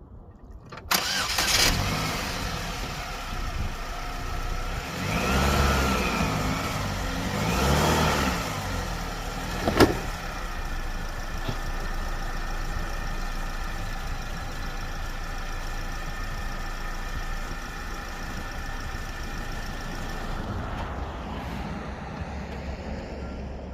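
2009 Chevy Cobalt's 2.2-litre four-cylinder engine starting about a second in, then revving up twice as the car is driven up onto ramps, and settling to a steady idle. A single sharp click comes about ten seconds in.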